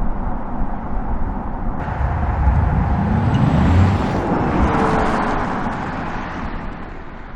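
Audi RS e-tron GT electric sports car driving past, its tyre and road noise growing to a peak about four seconds in and then fading away.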